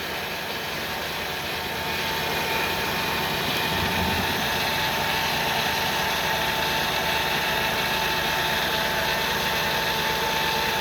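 Ford Windstar's 3.8-litre V6 idling on a cold start with a rough idle that shakes the engine heavily, though no misfires or vacuum leaks have been found. A thin steady whine runs over the engine sound.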